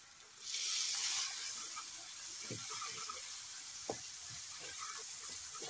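Chopped vegetables and spices sizzling in a steel kadai over a wood fire, stirred with a wooden spatula. The sizzle swells up about half a second in, then carries on more softly under a few short scrapes of the spatula against the pan.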